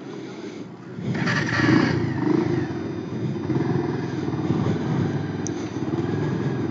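Bajaj Pulsar 150 single-cylinder motorcycle engine running while being ridden, revving up about a second in and then holding a steady pace.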